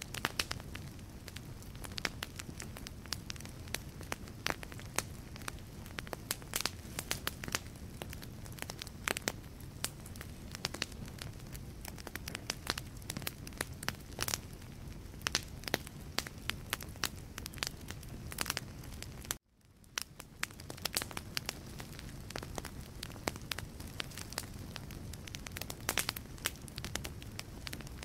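Wood fire crackling in a fireplace: frequent sharp pops and snaps from the burning logs over a steady low rumble of the flames. About two-thirds through, the sound cuts out for a moment and fades back in.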